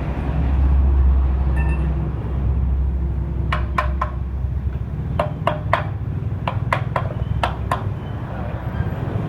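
A low rumble, then from about three and a half seconds in a run of sharp, irregular clicks, each with a brief ringing tone.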